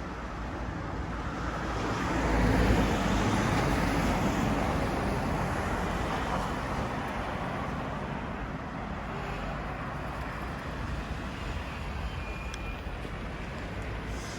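Road traffic noise, swelling to its loudest about two to three seconds in and then slowly fading.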